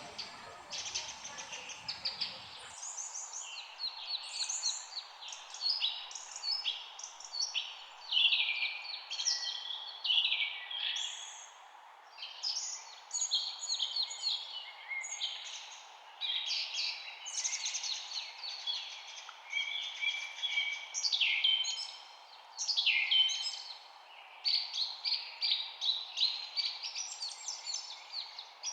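A chorus of many small birds chirping and singing at once, with rapid overlapping short notes and trills, over a steady faint background hiss.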